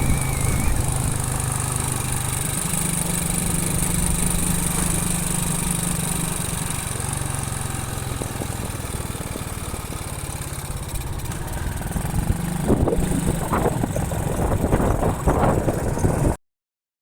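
Motorcycle engine running under way, mixed with road and wind noise; the engine note shifts up and down in pitch a few times. A few sharp rattles come near the end, then the sound cuts off suddenly.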